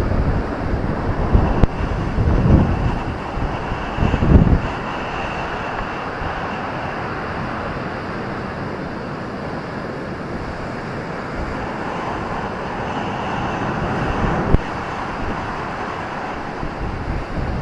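Ocean surf rushing steadily onto a beach, with wind buffeting the microphone in the first few seconds. The wash swells louder for a few seconds about three quarters of the way through.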